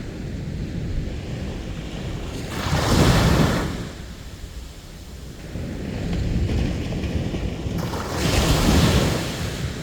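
Sea waves breaking on a beach: a steady wash of surf, with two waves crashing loudly, the first about three seconds in and the second near the end.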